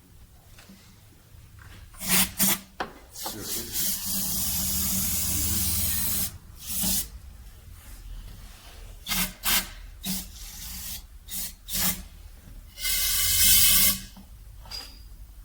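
Aerosol solvent cleaner spraying in hissing bursts: a few short squirts, a long spray of about two seconds, more short squirts, then another long spray near the end.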